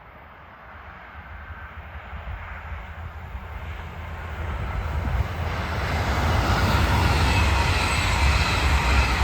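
A train approaching along the track, its rumble growing steadily louder and passing close over the last few seconds.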